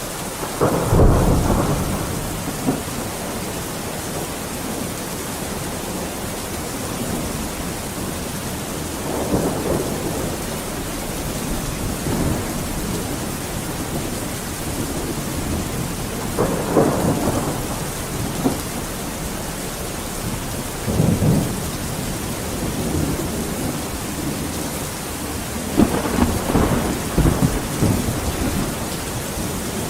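Steady heavy rain, with thunder rumbling five times over it: near the start, then spread through the middle, and a longer rolling spell near the end.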